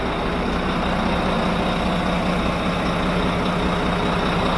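Volvo Penta IPS 900 marine diesel engines running steadily, a constant low hum with a steady tone and no change in speed.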